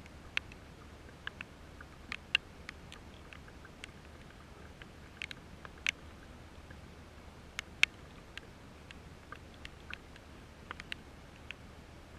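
Raindrops striking close to the microphone: irregular sharp ticks, a few much louder than the rest, over a low steady hum.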